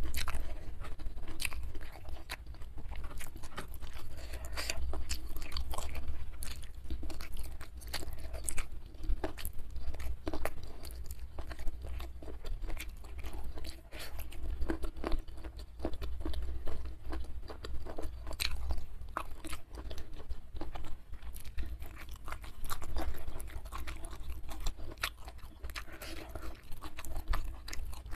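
Close-miked mouth sounds of eating rice with chili sambal by hand: steady chewing with irregular crunches and wet clicks, over a steady low hum.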